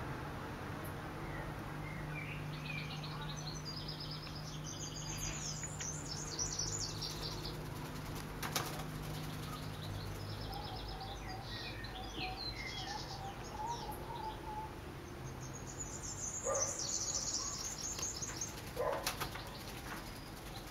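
A black-faced cuckooshrike's wings fluttering as it flies at its own reflection in a window pane, with three sharp knocks, one about eight seconds in and two near the end. Runs of high, quick chirping birdsong come and go throughout.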